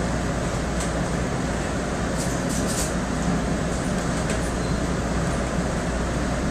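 Steady running noise of a commuter train in motion, heard from inside the passenger coach, with a few faint high clicks about two to three seconds in.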